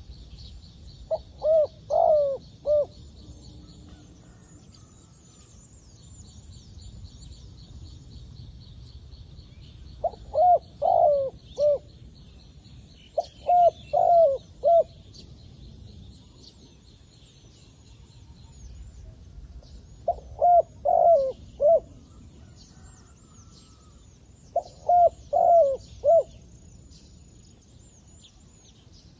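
A decoy dove cooing in five short phrases of four or five quick coos each, spaced several seconds apart, calling to draw wild doves in. Fainter high chirping and trilling from small birds or insects runs underneath.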